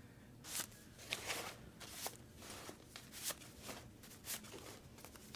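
Faint, irregular rustling and tapping of paper money, about ten short rustles, as bundles of bank notes are handled and stuffed into a bag.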